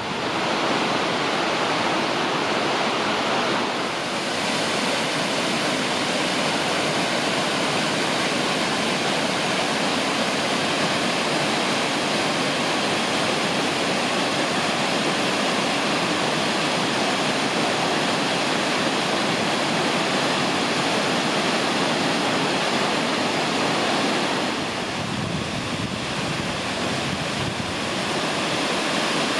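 Waterfall: water pouring and splashing in a steady, loud rush that eases slightly about 25 seconds in, then picks up again.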